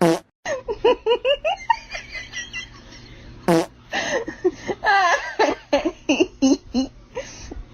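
People laughing and giggling, with two short, loud sounds that drop in pitch: one at the start and another about three and a half seconds in.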